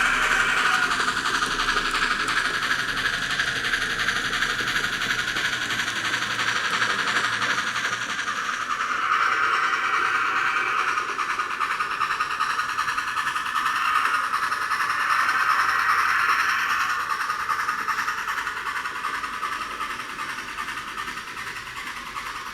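N scale model train running on the layout track, a steady noisy hiss that swells louder twice and falls off near the end.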